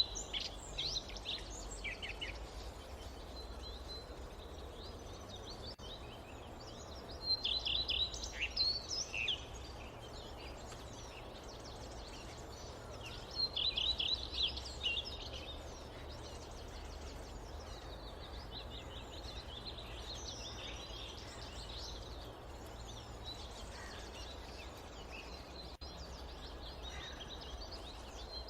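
Songbirds singing in a forest, a loud trilled phrase repeating about every six seconds, three times, then softer scattered chirping, over a steady low background rumble.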